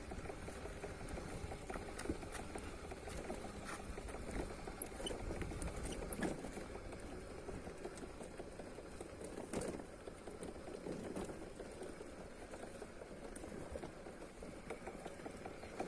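Footsteps on a dirt path going downhill, an irregular patter of small crunches and clicks, over a low rumble of wind on the microphone.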